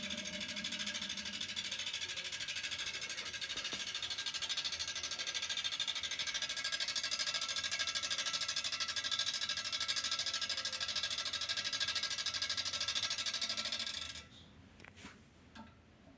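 Electric motor of a 1960s Primus mini single-tub washing machine running with a steady hum. It cuts off suddenly near the end, followed by a few faint clicks.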